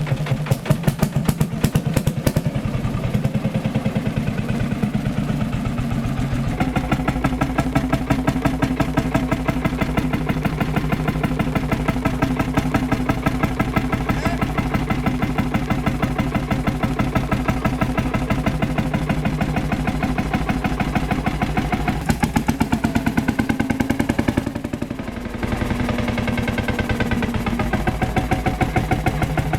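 Ursus C-451 tractor's single-cylinder two-stroke hot-bulb engine running with a steady, evenly pulsing beat. Its note shifts about six seconds in, and again a little past twenty seconds in.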